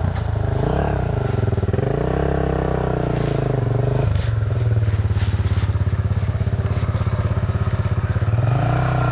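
Dirt bike engine revving up and down, then settling to a steady pulsing idle about four seconds in, and revving up again near the end.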